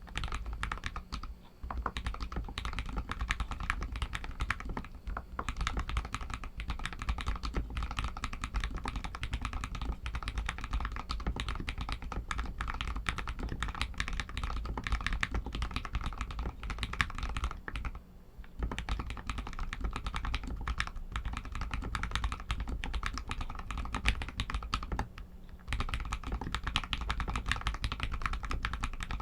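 Continuous fast typing on an RK61 mechanical keyboard with Outemu red linear switches, a dense stream of key clacks with short pauses about a second and a half in, near the middle and about three quarters through.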